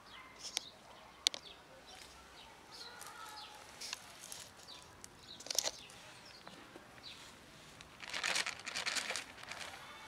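Small birds chirping now and then, with a few sharp clicks and a burst of rustling and crinkling about eight seconds in.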